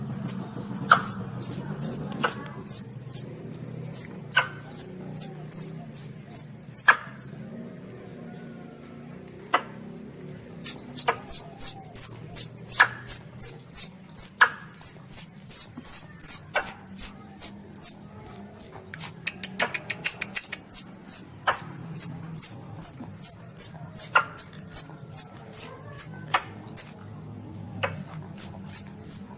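Baby Asian palm civet (luwak) calling: a long run of short, very high-pitched squeaks, about three a second, with a pause of about two seconds partway through, played as a hunting lure call.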